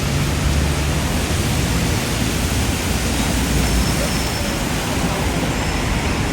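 Typhoon wind blowing hard, a dense even rush of noise with a low rumble that comes and goes.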